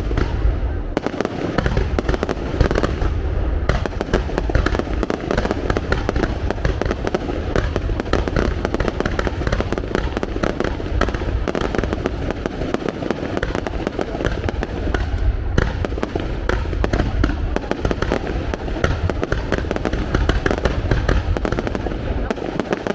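Aerial fireworks display: shells bursting in a dense, unbroken stream of bangs and crackles with deep booms underneath.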